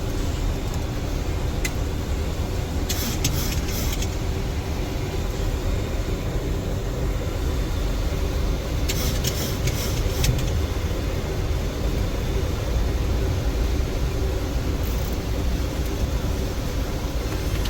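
Steady cockpit noise of a Boeing 737 in flight: a low rumble of airflow and engines with a faint hum, broken twice by short bursts of hiss.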